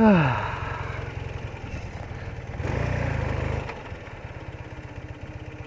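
BMW R80RT's air-cooled flat-twin engine running at low speed, getting louder for about a second midway before settling back to a tick-over. At the very start, a short falling "whee" from the rider's voice.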